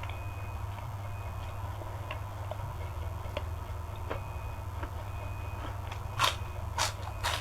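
Soft chewing clicks over a steady low hum, then three sharp crunches about half a second apart near the end: crisp food being bitten and chewed.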